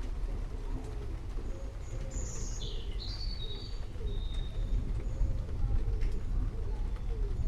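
Birds singing over a steady low rumble: a few bright high chirps about two to four seconds in, and low wavering cooing calls throughout.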